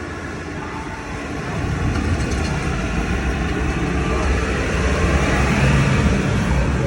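Tractor engine running with a low rumble as it draws near, growing steadily louder from about a second and a half in.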